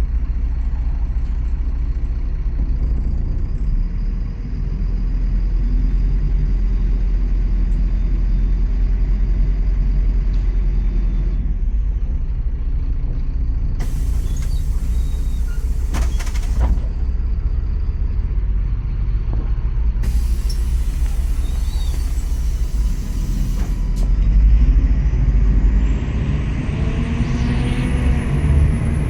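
MAZ-103 city bus running, heard from a passenger's seat: a steady low engine rumble, with two loud hisses of compressed air about 14 and 20 seconds in. Near the end a whine rises in pitch as the engine note climbs.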